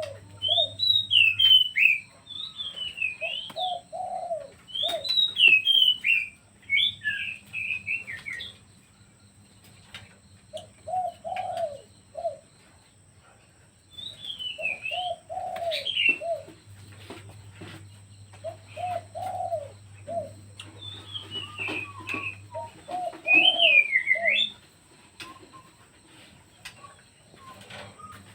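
Pet birds calling: short phrases of low, rounded notes repeated again and again, interleaved with higher, wavering chirps, with a lull in the middle.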